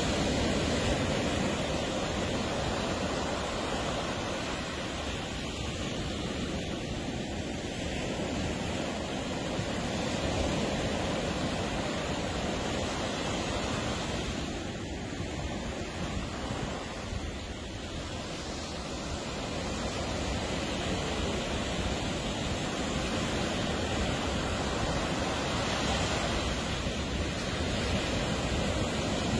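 Atlantic surf on a beach: a steady rush of breaking and washing waves that swells and eases slowly.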